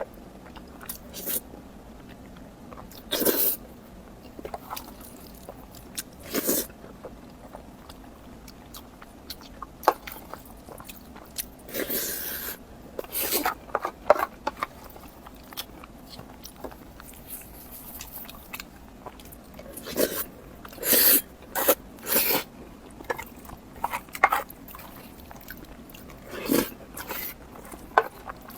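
Close-miked eating: irregular bites and chewing, short sharp mouth and food sounds with brief pauses between, in clusters about twelve seconds in and again about twenty seconds in.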